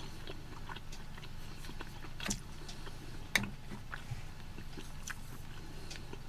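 A person chewing a bite of MRE grilled chicken close to the microphone, a run of small wet mouth clicks with two louder clicks a little past two and three seconds in.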